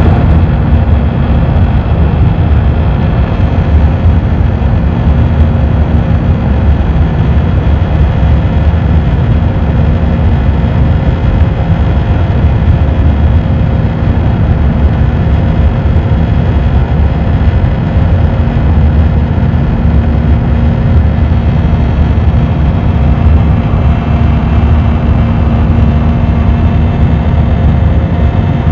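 Airliner cabin noise: the steady rumble of the jet engines and airflow heard from inside the cabin, with a constant hum of a few fixed tones over it.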